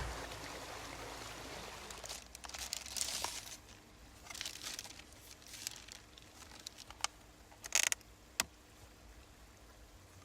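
Rustling and crinkling as things are handled, with a few sharp clicks and taps about three-quarters of the way through.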